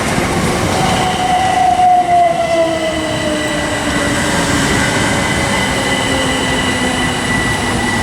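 Class 377 Electrostar electric multiple unit pulling into the platform and slowing, its motor whine falling steadily in pitch under a continuous rumble of wheels on track, with a steady high-pitched tone above it.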